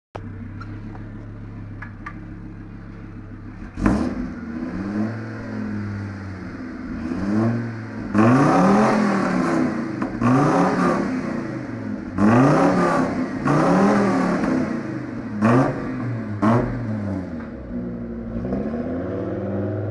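VW T4 Transporter pickup's 2.5-litre petrol five-cylinder engine, breathing through a custom side-exit stainless exhaust with twin tips. It idles steadily for a few seconds, then is blipped repeatedly in short rises and falls of engine speed, with a sharp crack as several of the revs begin. Its deep exhaust note is one the owner says sounds like a V8.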